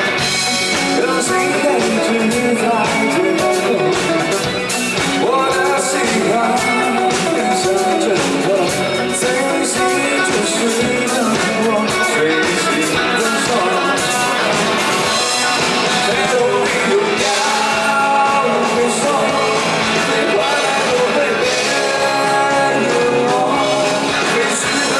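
Rock band playing live, with a lead singer over electric guitars and drums, loud and without a break.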